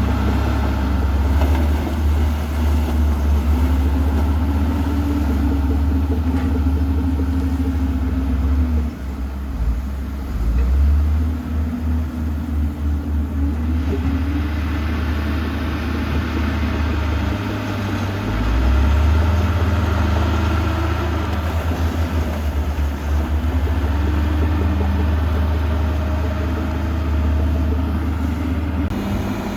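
Heavy diesel earthmoving machinery running steadily under load, with the engine note rising and falling several times as the machine is throttled up and eased back.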